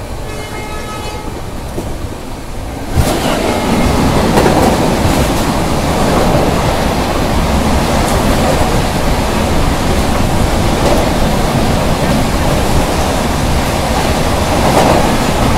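Moving passenger train's running noise: quieter for the first few seconds, then about three seconds in it suddenly grows into a loud, steady rushing rumble of wheels and track.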